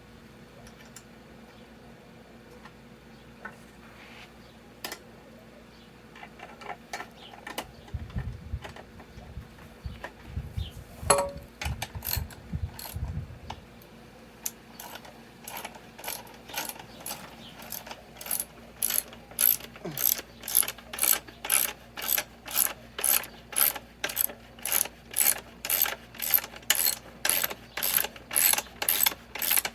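Hand ratchet wrench worked in short back-and-forth strokes, its pawl clicking about twice a second; the strokes grow steady and louder over the second half. Scattered knocks and clunks come before them.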